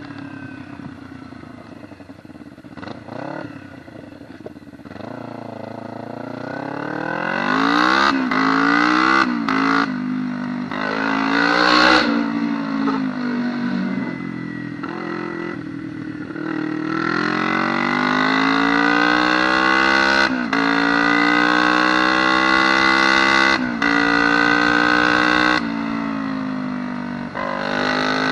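Homemade dirt bike's Kawasaki Ninja engine, fitted with 115 main jets, pulling hard through the gears on a top-speed run. Its pitch climbs and drops sharply at each upshift, several times. It runs low and quieter for the first few seconds, eases off in the middle, then winds up through the gears again.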